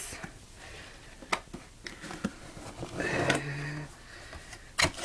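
Cardboard product box being handled and its lid lifted open: a few light knocks and a soft brushing scrape, with a sharper knock near the end.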